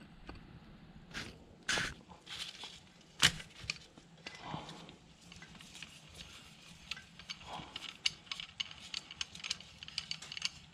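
Light metal clicks and taps from a valve spring compressor being worked off an engine cylinder head. A few louder knocks come in the first few seconds, then a run of quick, light ticks.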